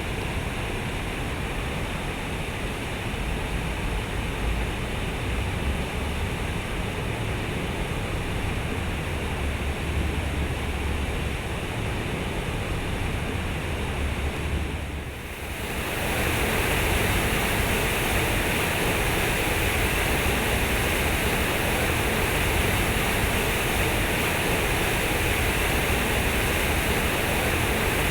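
Flowing water rushing steadily. About halfway through it dips briefly, then comes back louder, with more high hiss.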